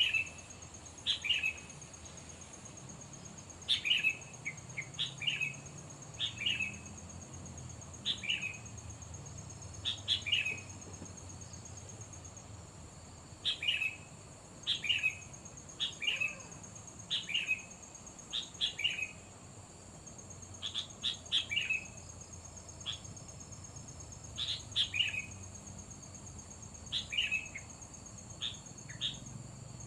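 Sooty-headed bulbul (kutilang) calls: short, sharp notes that drop in pitch, repeated every second or two and often given in quick pairs, over a steady high-pitched whine.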